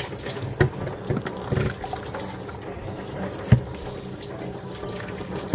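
Water splashing and trickling as hot water runs into the iced-up air duct of a refrigerator freezer, melting the blockage and draining out, with a few light knocks, the sharpest about three and a half seconds in.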